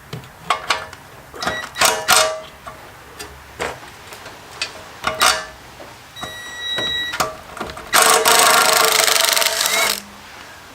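Metal clicks and knocks of tools on bolts as the torque converter cover of an MTD Trail Flite mini bike is unbolted. Then a loud, rapid mechanical run of about two seconds, starting about eight seconds in, as a bolt is spun out.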